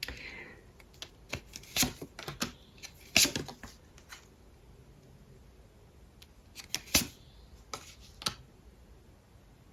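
Tarot cards being handled and laid out on a table: irregular sharp clicks and taps, a run of them over the first four seconds and another cluster around seven to eight seconds in.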